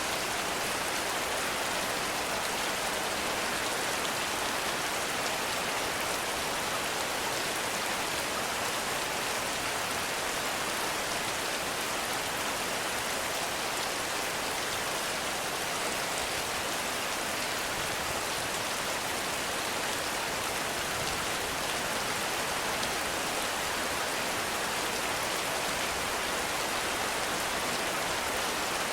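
Heavy rain falling steadily: an even, unbroken hiss with no thunder and no single drops standing out.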